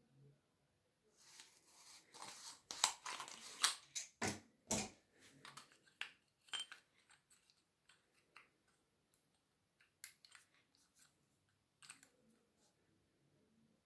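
Handling noises of small hard objects: a few seconds of scratchy scraping and sharp clicks, then scattered lighter clicks.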